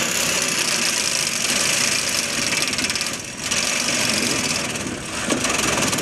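A 60-volt cordless power tool cutting metal on the chiller's riveted panels, running steadily with a brief dip about three seconds in. Its battery is running down.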